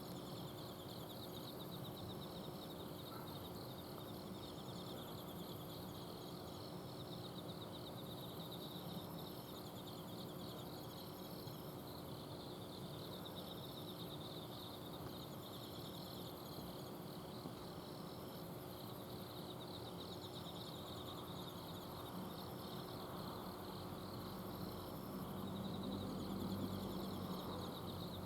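Autumn night insects chirping and trilling, several kinds at once in repeating high-pitched phrases, over the steady hum of an air-conditioner outdoor unit. A low rumble swells briefly near the end.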